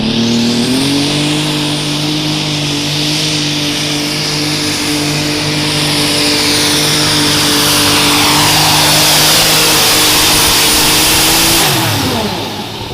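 Light super stock pulling tractor's engine held wide open under load, one steady high-revving note with a thin high whistle over it, the noise building as it goes; about 12 seconds in the revs drop away as the throttle comes off.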